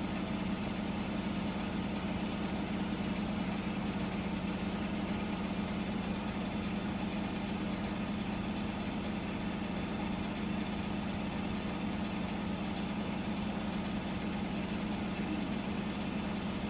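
Hotpoint washing machine running with a steady, even hum, in the last minute or so of its cycle.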